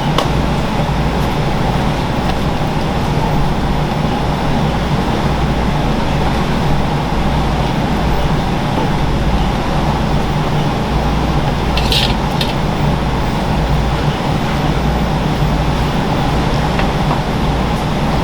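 Steady loud mechanical hum with low droning tones, and a brief hiss about twelve seconds in.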